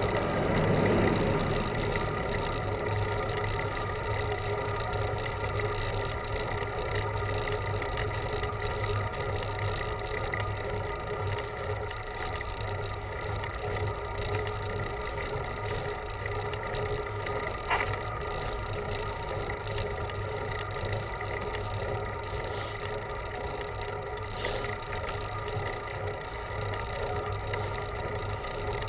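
Steady wind and road rush with a constant low hum, heard from a bicycle climbing a mountain road. About a second in there is a brief falling whoosh, and a single sharp tick comes past the middle.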